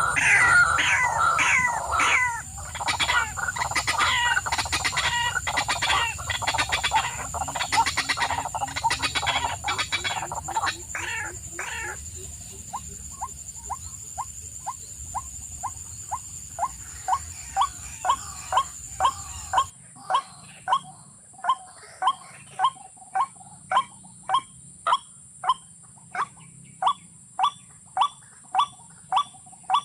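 Birds calling: a dense chorus of chirps at first, then from about halfway one short call repeated evenly, roughly one and a half times a second. A steady high-pitched whine runs underneath.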